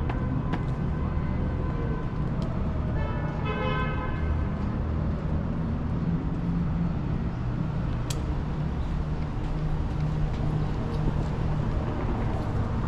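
City street traffic rumbling steadily, with a car horn sounding briefly about three seconds in and a sharp click a few seconds later.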